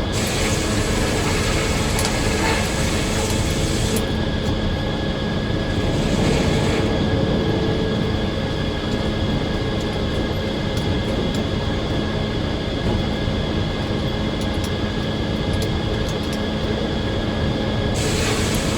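Circular sawmill running steadily, a loud machine drone with level tones; a brighter hiss in the high end is there for the first few seconds, comes back briefly around six seconds in, and returns near the end.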